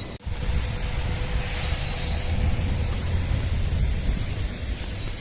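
Wind buffeting the microphone: steady, uneven low rumble with a hiss of moving air over it.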